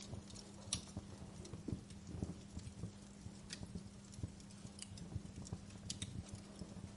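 Fire crackling, with sharp pops and snaps at irregular intervals over a faint steady hum.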